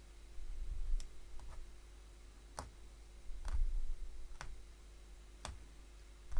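Hollow punch needle being stabbed through fabric, giving sharp clicks at irregular intervals of about one a second, with dull low thuds in between as the work is handled.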